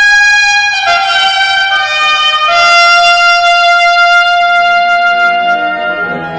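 Brass fanfare from a film score: trumpets play long held notes, with new notes coming in about one, two and two and a half seconds in to build a sustained chord.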